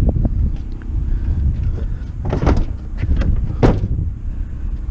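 A vehicle engine running with a steady low rumble, with several clunks, near the start, about two and a half seconds in and about three and a half seconds in, typical of a door shutting or scrap metal being handled.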